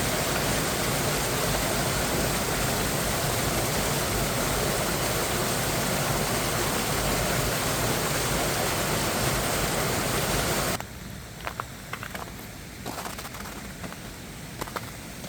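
Rushing water of a valley stream and its small waterfalls, a steady rush that cuts off abruptly about eleven seconds in, leaving a much quieter background with scattered small clicks.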